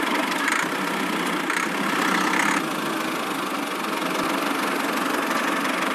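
Small motor of a miniature DIY construction machine running steadily.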